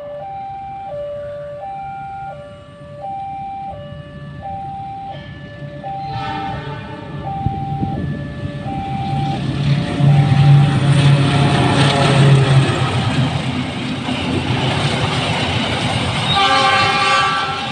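Level-crossing warning alarm chiming two alternating notes, a pair about every second and a half, fading out after about nine seconds as the Argo Wilis passenger train's diesel locomotive comes up loud with a heavy engine drone around ten seconds in. A short train horn blast sounds near the end.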